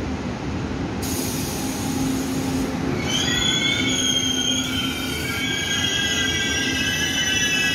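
Taiwan Railway passenger train rolling along the station platform with a steady rumble. About three seconds in, a high metallic squeal from its running gear sets in, several steady pitches at once, and holds.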